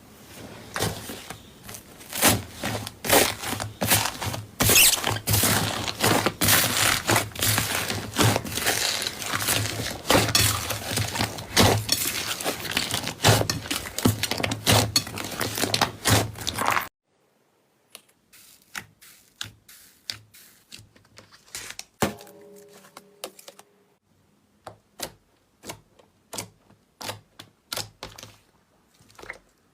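Slime being squeezed and pressed, a dense run of crackling clicks and pops. About two-thirds of the way in the sound cuts off abruptly, and only sparse, quieter clicks follow.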